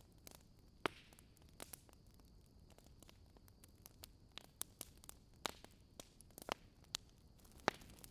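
Wood campfire crackling: irregular sharp pops and snaps, two of them much louder, about a second in and near the end, over a faint steady hiss.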